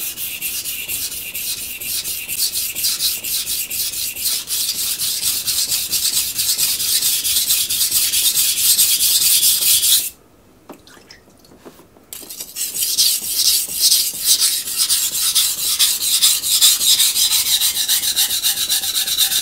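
A steel knife blade rubbed back and forth on a coarse Miyagoshi water stone in quick, even strokes, grinding out a nick in the edge. The strokes stop for about two seconds around ten seconds in, then go on again.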